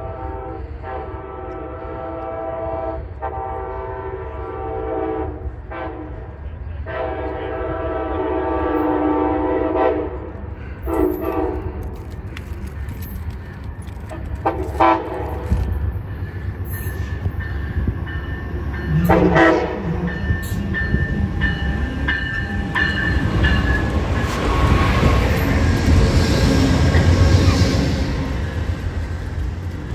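A train's multi-tone horn sounds a series of blasts through the first third, with a few shorter blasts after. Then the train rolls past, its noise building and loudest near the end.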